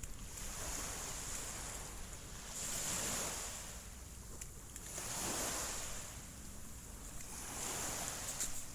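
Small waves washing onto a shallow sandy beach, the surf noise swelling and fading about every two to three seconds, with a low rumble of wind on the microphone.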